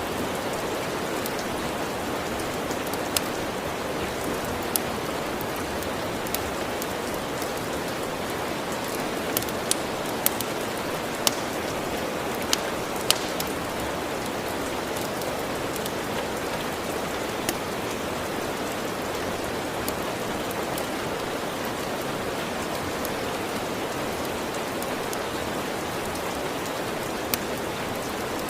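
Steady rain falling, an even hiss, with scattered sharp crackles and pops from a log fire at irregular intervals.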